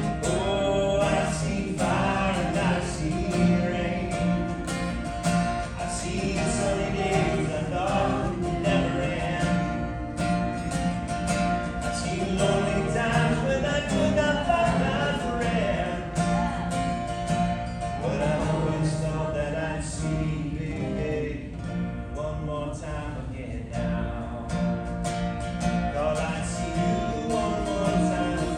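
Singing with acoustic guitar accompaniment.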